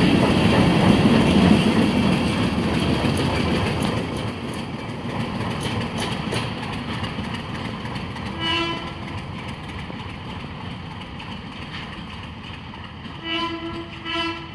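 ALCO DL535 diesel work train with hopper cars rumbling and clattering past, fading as it moves away. A short locomotive horn blast sounds about eight seconds in and two more short blasts near the end.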